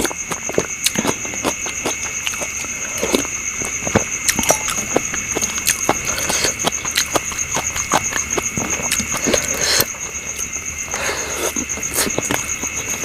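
Close-up eating sounds: chewing with frequent small wet clicks and crunches, irregular throughout. Behind them, insects trill steadily at a high pitch.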